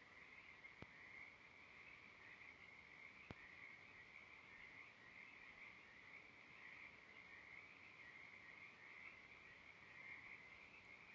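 Near silence with a faint, steady, high-pitched animal chorus, plus two soft clicks about one and three seconds in.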